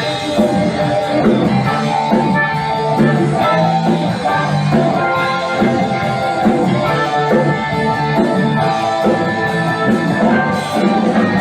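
Rock band playing an instrumental passage: guitar over a moving bass line and a drum kit.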